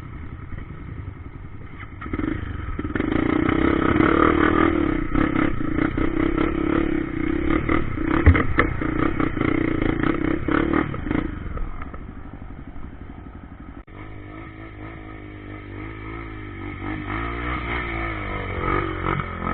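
Trail motorcycle engine running under way, pulling harder from about two seconds in and easing off around eleven seconds, with clattering knocks from the bike over rough ground. Near the end the engine note wavers up and down as the throttle changes.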